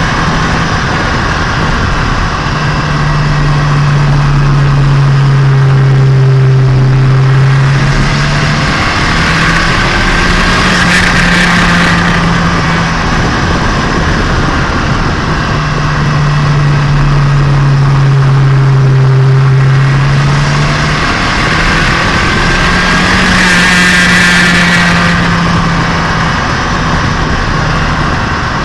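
Turbocharged Nissan Micra engine being run in, heard onboard while driving: a steady engine note whose pitch shifts up and down every few seconds as the revs change. A louder hiss rises and falls twice, about ten seconds in and again near twenty-four seconds.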